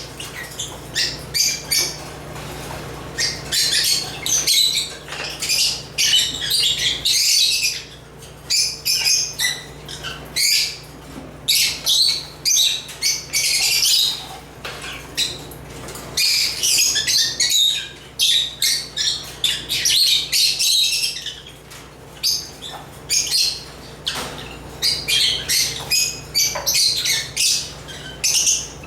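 African lovebirds (Agapornis) chirping and twittering, shrill high calls overlapping in dense bursts a second or two long with brief pauses between.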